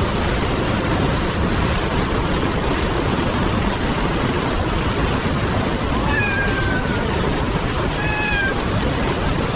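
Rushing river water as a steady wash of noise, with a cat meowing twice over it in the second half: one long, falling meow, then a shorter one.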